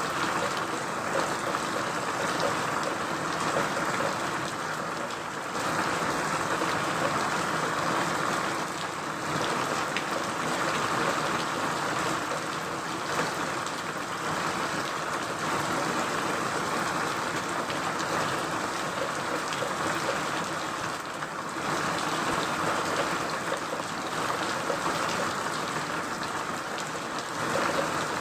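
Steady rain falling, a dense hiss that rises and falls in strength every few seconds, with scattered drop ticks in it.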